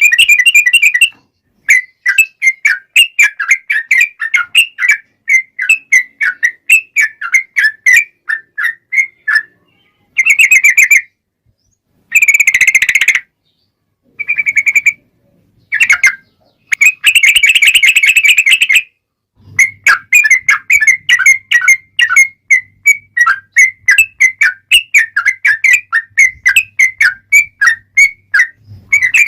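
Yellow-vented bulbul (trucukan) singing long rolling runs of quick, bubbly repeated notes, broken by short silences. There are two denser continuous trills, one about twelve seconds in and one around seventeen to nineteen seconds in. This is the lively 'gacor' song used as a lure to make other trucukan answer.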